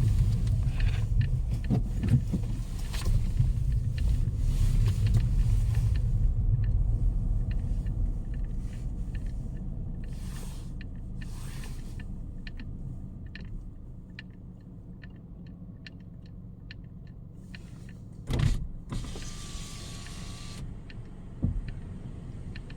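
Storm wind rumbling against the microphone, dying down after about eight seconds, with scattered ticks of rain. Late on there is a thump, then a brief motor whine lasting about two seconds, and another thump.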